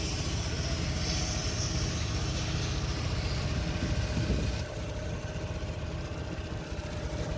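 A vehicle engine running steadily, with a slight drop in level a little under five seconds in.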